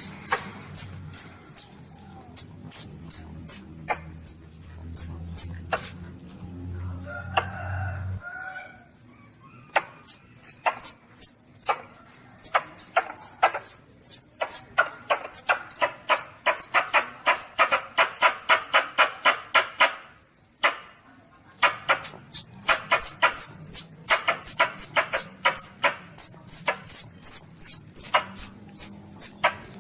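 Baby Asian palm civet (luwak) calls played as a hunting lure: rapid high squeaks, several a second, each a short falling chirp, with a stretch of faster pulsing calls in the middle. A low hum lies under the first eight seconds.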